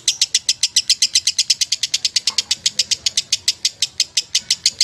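Lovebird singing a long, unbroken chatter of rapid high chirps, about a dozen a second, the continuous 'ngekek' song prized in lovebird contests.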